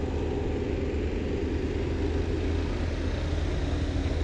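Steady low engine drone with a constant noise haze over it, like a motor vehicle running at an even speed.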